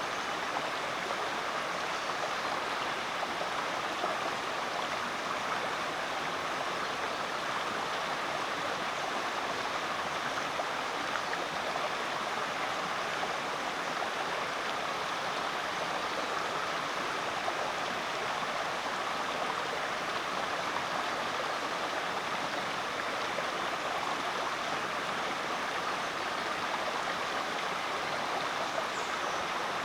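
Rainforest creek water flowing steadily, an even, constant rush.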